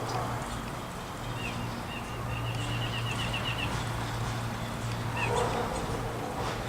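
A small songbird gives a rapid trill of about ten quick notes lasting about a second and a half, with single chirps before and after, over a steady low hum.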